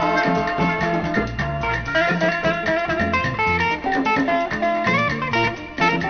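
Nigerian Ijaw dance-band music: guitars picking melodic lines over a repeating bass line and percussion, with no singing.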